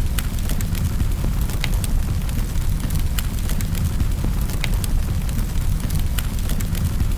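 Wood fire in a fireplace crackling: irregular sharp pops and snaps, a few a second, over a steady low rumble.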